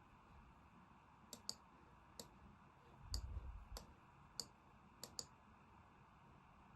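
Faint computer mouse clicks, about eight of them, some in quick pairs like double-clicks, with a dull low thump about three seconds in.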